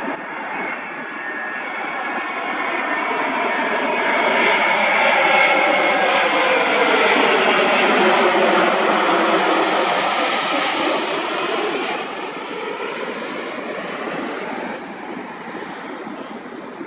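Jet airliner on final approach passing low overhead: the engine roar builds, peaks midway with a whine that falls in pitch as it goes by, then fades away.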